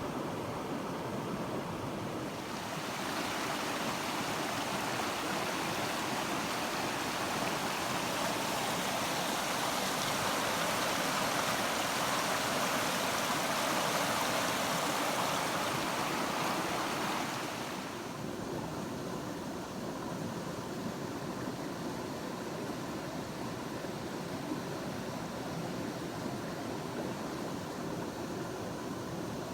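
Rushing water of a stream running high after heavy rain, a steady hiss. From about three seconds in it swells louder and brighter for about fifteen seconds, then drops back to the earlier level.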